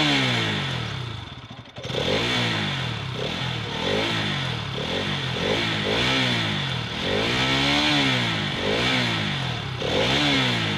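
Bajaj Pulsar 200cc single-cylinder motorcycle engine revving up and down repeatedly, its pitch climbing and dropping about every second or two, with a steady hiss of wind or road noise under it.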